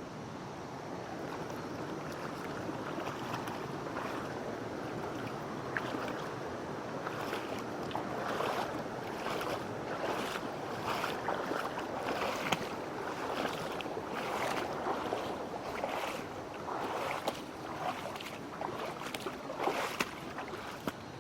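Mountain stream running over rocks, with irregular splashes of water that grow more frequent about a third of the way in.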